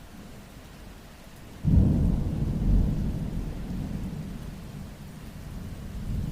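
Steady rain, then a sudden clap of thunder a little under two seconds in, followed by a long low rumble that slowly eases.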